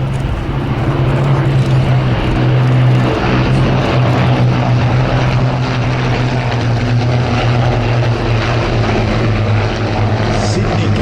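Piston-engined propeller aircraft flying over, a loud steady engine drone that drops slightly in pitch about three seconds in.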